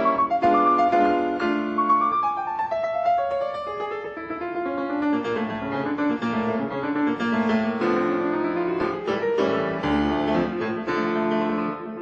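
Solo piano playing a classical piece: a continuous stream of changing notes over sustained lower chords.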